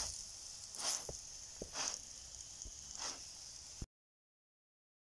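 Saag paratha sizzling in oil on a hot tawa, with a soft swish about once a second as it is spun round on the griddle. The sound cuts off abruptly to dead silence about four seconds in.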